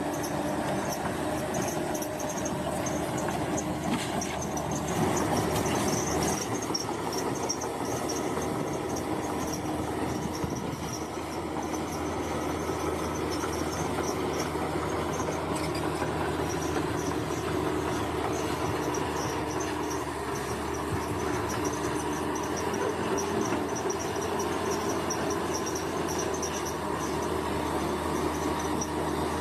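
Bulldozer's diesel engine running steadily under load, with insects trilling in a pulsing high chirp over it.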